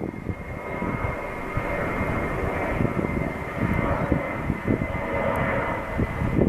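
Airbus A320 jet engines at takeoff power: a steady high whine over a continuous roar with a rough, fluttering low rumble.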